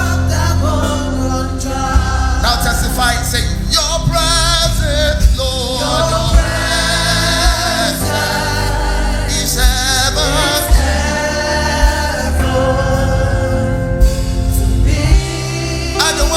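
Live gospel worship music: singers with a wavering vibrato, backed by a choir, over a band with heavy bass and occasional sharp drum hits.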